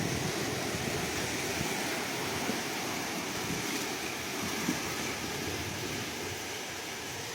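Ocean waves washing steadily on the shore, with wind on the microphone.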